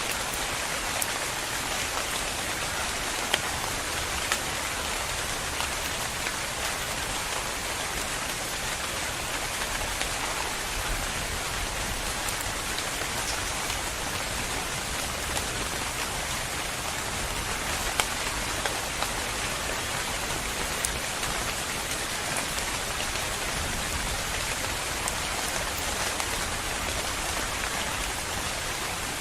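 Steady rain falling, with scattered louder drop ticks standing out from the hiss.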